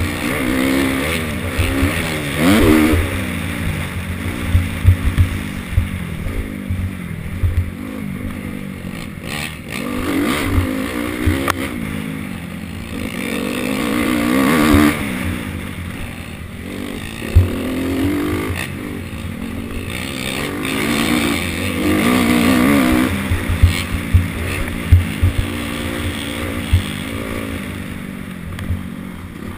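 Motocross bike engines revving up and falling back again and again as the bikes ride the track, louder as a bike comes close. Short sharp thumps are scattered through it.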